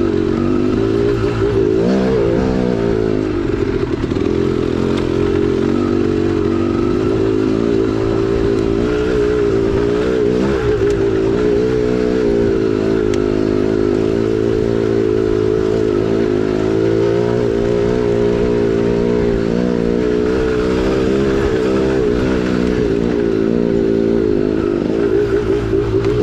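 2010 KTM 300XC-W's 300cc two-stroke single-cylinder engine running under way, its revs rising and falling continually as the throttle is worked.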